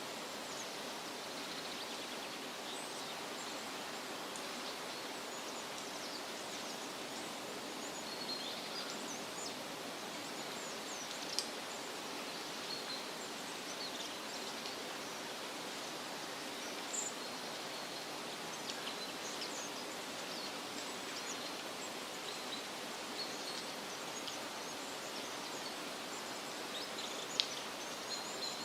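Steady wind rustling through leafy trees, with scattered short high bird chirps throughout.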